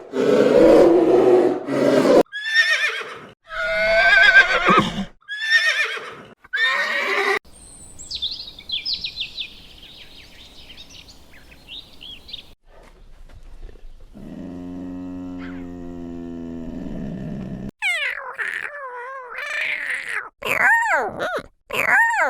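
A run of different animal calls one after another, among them horse whinnies with a quavering, wavering pitch in the last few seconds.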